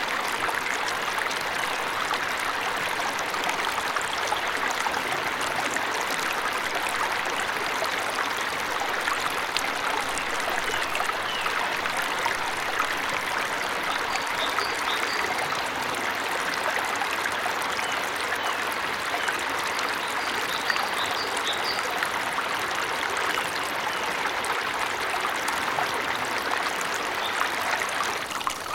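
Waterfall running steadily, with a few faint, short, high bird chirps now and then in the middle.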